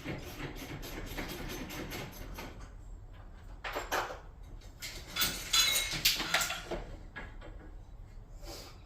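Metal garage door parts being handled during removal: a run of light clicks and knocks, then louder metallic clattering with some ringing in the middle.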